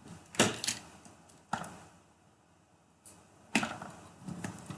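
Several sharp, short clicks and clacks of small hard plastic parts being handled, as when an eMMC chip is moved between socket adapters, spaced irregularly with quiet between them.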